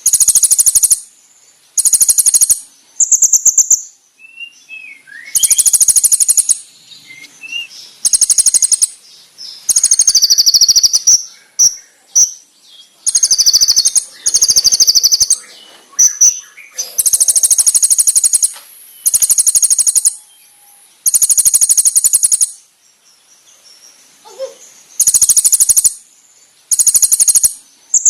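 Olive-backed sunbird (konin, kolibri ninja) singing loud, high-pitched rapid trills, each about a second long, repeated every one to two seconds, with short chirps and sliding notes between them.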